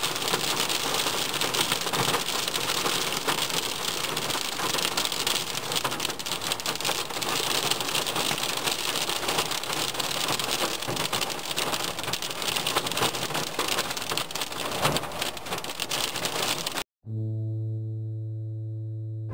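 Heavy rain falling, a dense steady hiss with the crackle of many drops. Near the end it cuts off suddenly and organ music begins.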